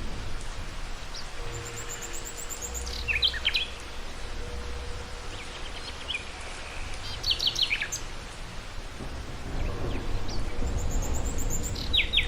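Songbirds chirping in quick clusters of short, falling notes over a steady hiss of outdoor background noise. A low rumble builds in the last couple of seconds.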